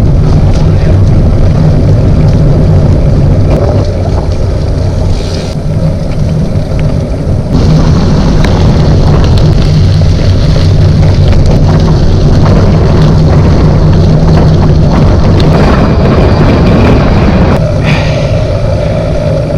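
Loud wind noise buffeting the microphone, with a heavy low rumble, as from a camera riding on a moving bicycle; the sound changes abruptly a few times.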